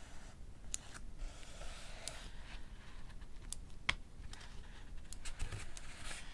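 Pages of a paperback book rustling as they are turned, with sharp, separate clicks of a mechanical pencil's lead being pushed out; the loudest click comes a little under four seconds in.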